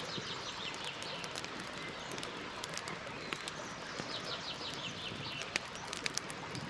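Campfire crackling, with scattered sharp pops over a steady hiss. A small bird sings a short rapid trill twice, at the start and again about four seconds in.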